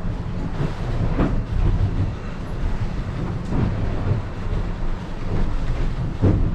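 Steady low rumble and rush of a catamaran under way at sea, with wind on the microphone and about three brief knocks or splashes.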